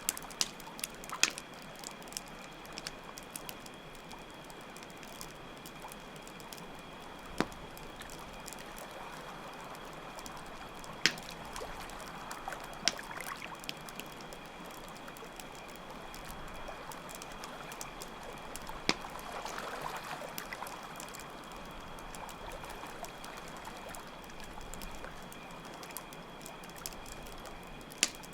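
Campfire crackling with a handful of sharp pops, over a steady wash of flowing water and a continuous high chirping of crickets.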